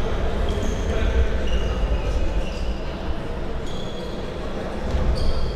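Football match ambience in an echoing hall: a steady rumble of play and distant voices, dotted with short high-pitched squeaks.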